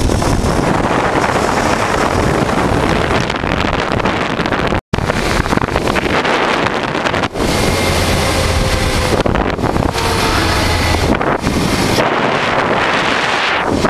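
Heavy wind rushing over the microphone of a motorcycle on the move, with the low drone of the 1988 Honda Transalp's V-twin running underneath. The sound cuts out for an instant a little before halfway.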